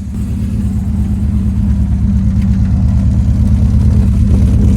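BMW E36 M3's straight-six idling on a cold start through a full header-back exhaust with Rebello cams: a steady, deep exhaust drone that grows gradually louder.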